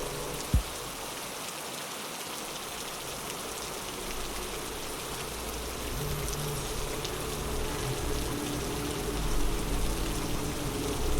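Steady rainfall, an even hiss of falling drops, with one sharp drip or knock about half a second in.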